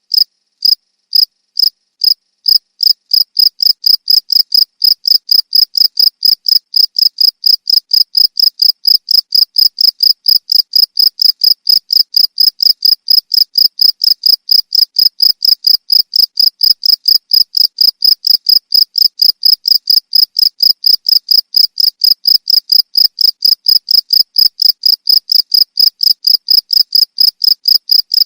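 Cricket chirping loudly in a steady run of short, high-pitched chirps, a little slower for the first few seconds, then about three a second.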